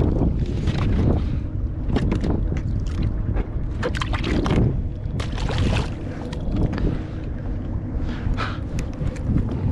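Wind buffeting an action camera's microphone on a kayak, over water lapping against the hull, with scattered clicks and knocks.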